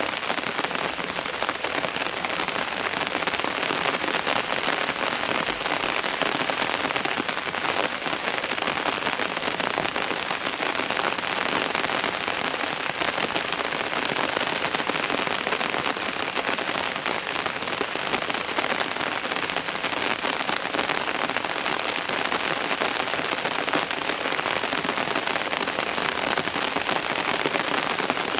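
Steady rain falling and pattering on surfaces, an even dense hiss of many drops.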